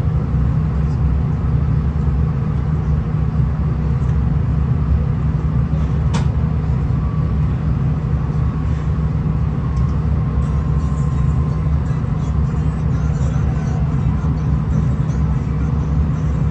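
V/Line VLocity diesel railcar running along the line, heard from on board: a steady low rumble of engine and wheels on the track, with a single sharp click about six seconds in.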